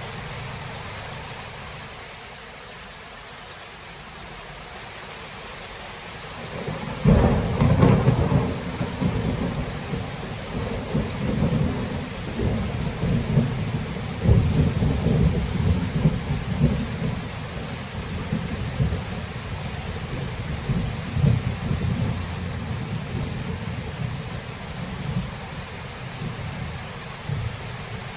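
Thunderstorm: steady rain hiss, then a sudden crack of thunder about a quarter of the way in, the loudest moment, followed by a long rolling rumble that swells and ebbs as it slowly dies away.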